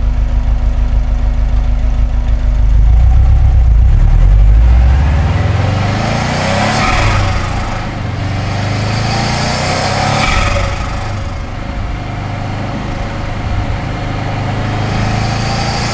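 Subaru Impreza WRX GC8's turbocharged flat-four engine with an STI exhaust: a deep, loud rumble at low revs for the first few seconds, then the revs climb and fall several times, with bursts of hiss at the peaks. With no blow-off valve fitted, the turbo flutters as the throttle closes.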